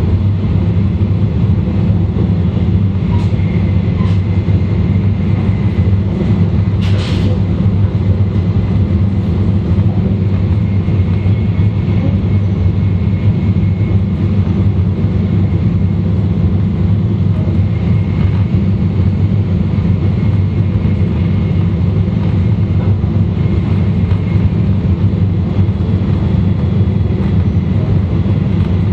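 E2-series Shinkansen running noise heard from a car vestibule: a loud, steady low rumble of wheels on rail and body noise, with a faint steady high tone and a brief hiss about seven seconds in.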